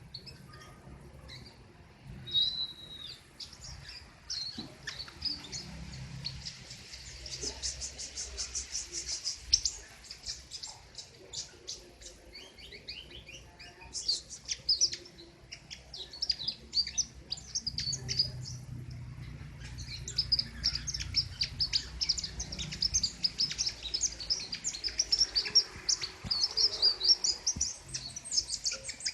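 King konin, a sunbird kept as a songbird, singing a long continuous run of rapid, sharp, high chirps and trills, thinning out briefly in places.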